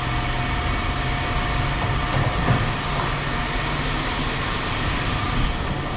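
Steady machine noise: a continuous hiss with a low, even hum underneath, with no distinct knocks or changes.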